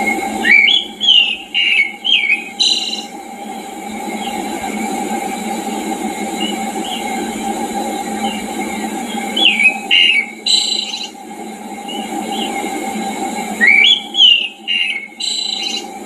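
A songbird sings loud whistled phrases of quick rising and falling notes, three bouts about four to five seconds apart, with fainter bird notes in between, over a steady low background noise.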